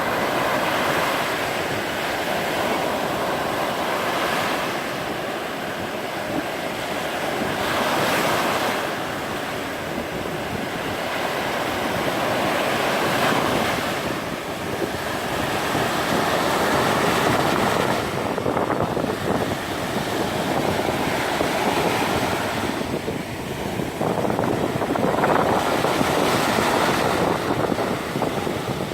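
Black Sea surf breaking and washing up a sandy beach, the noise swelling and easing as each wave comes in. Wind buffets the microphone throughout.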